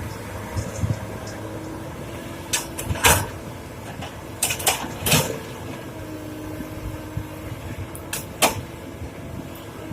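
Hydraulic excavator's diesel engine running steadily, with sharp clanks of rock against steel: a loud cluster about three seconds in, more around five seconds, and two more near the end.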